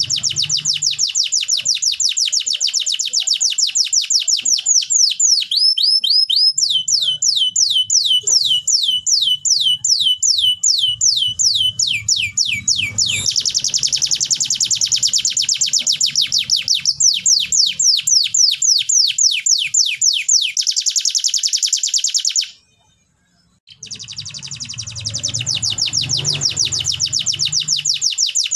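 Canary singing long, fast trills of repeated down-sweeping notes, switching to a new tempo and pitch every few seconds, over a faint low hum. The song drops out for about a second near the end, then resumes.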